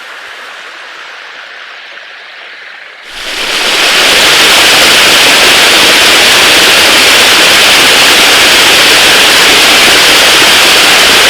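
Rushing water in a steep creek valley, a steady hiss that jumps to a very loud, even roar about three seconds in and holds.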